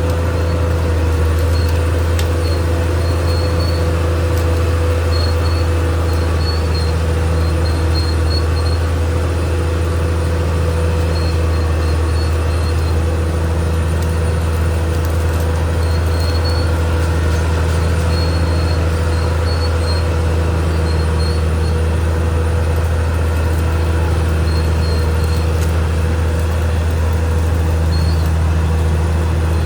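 Caterpillar D6R XL bulldozer's diesel engine running steadily, a deep even drone with a constant whine above it.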